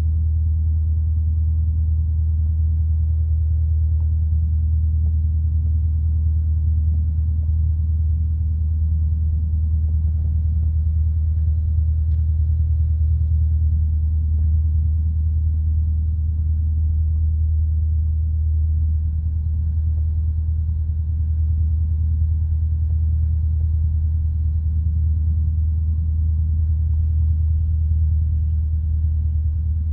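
Steady low drone of a light piston aircraft's engine heard inside the cockpit on final approach, even in level throughout.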